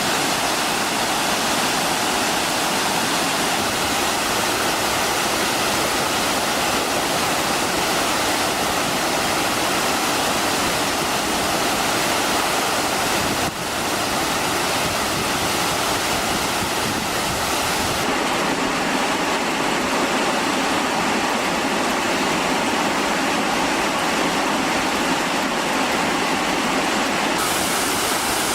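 Waterfall: a steady rush of falling water, with a brief dip about 13 seconds in.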